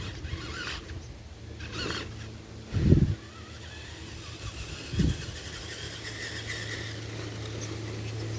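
Tamiya TXT-2 RC monster truck running, its motor and drivetrain giving a steady low hum with faint higher whines. Two heavy thumps come about three and five seconds in, the first louder.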